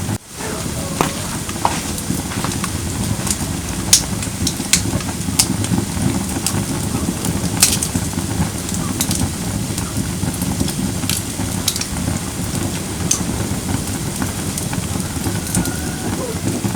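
Firewood burning in a campfire pit: a steady low rush of flames with scattered sharp crackles and pops from the wood. The sound drops out for a split second at the very start.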